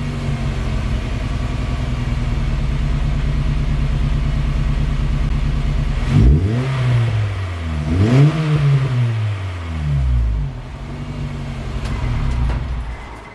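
Honda Fit GE8's 1.5-litre four-cylinder engine through a new aftermarket muffler, idling steadily, then blipped twice about six and eight seconds in, each rev climbing and falling back to idle, with a smaller blip near ten seconds. The exhaust note is fairly deep but not loud.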